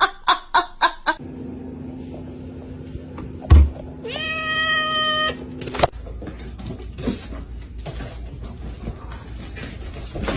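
A domestic cat gives one long, steady meow about four seconds in, just after a loud thump.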